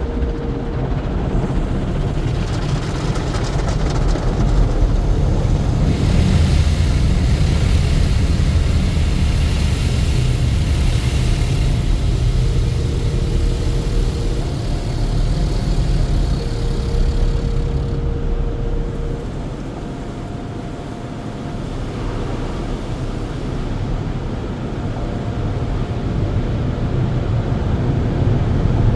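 Express tunnel car wash machinery heard from inside a car riding through it: a steady low rumble with a hiss that swells for several seconds in the middle, and short humming tones that come and go.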